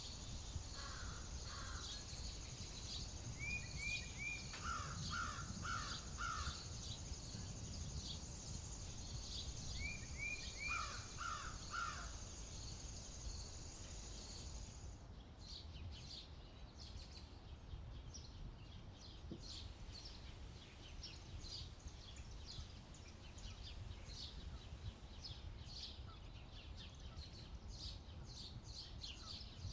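Outdoor ambience: a steady low rumble of wind, with a high insect-like drone that cuts off suddenly about halfway. Birds call in short runs of three or four harsh notes a few times in the first half, and scattered short high chirps follow.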